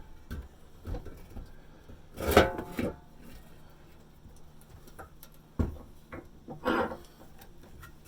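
Clanks and knocks of a steel exhaust pipe and muffler being handled and set in a bench vise. The loudest comes a little over two seconds in, a short cluster that rings briefly like struck metal, with single knocks before and after.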